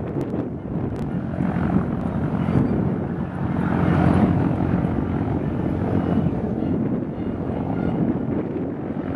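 Propeller aircraft piston engines droning steadily, swelling a little about four seconds in, with a few faint clicks near the start.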